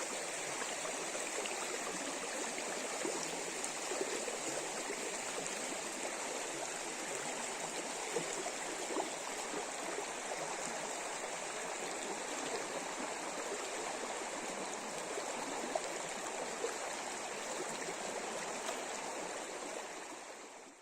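River water rushing over riffles, a steady even noise that fades out at the very end.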